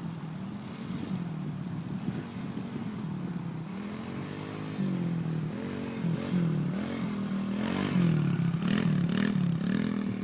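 Kawasaki 110 dirt bike engine running in first gear, its pitch rising and falling as the throttle is worked on and off. It gets louder later on, with a few short clatters near the end.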